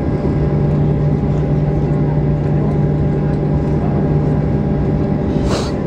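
Steady cabin drone inside a Boeing 737-800 on the ground after landing, with a constant low hum. A brief hiss comes near the end.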